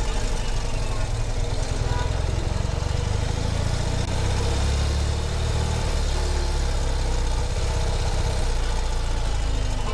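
Ural sidecar motorcycle's flat-twin engine running steadily at low revs.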